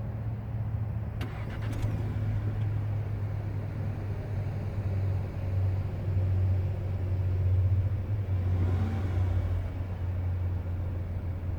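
2018 Audi A5 Coupe's turbocharged 2.0-litre four-cylinder engine running at idle, with a couple of clicks a little over a second in and a brief rise in revs about nine seconds in.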